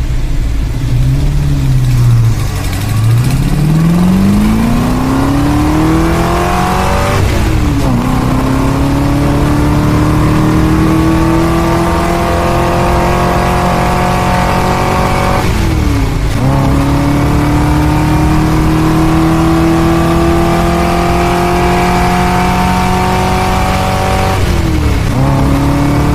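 Car engine accelerating through the gears: its note climbs slowly, drops sharply at each upshift about 7, 16 and 25 seconds in, then climbs again.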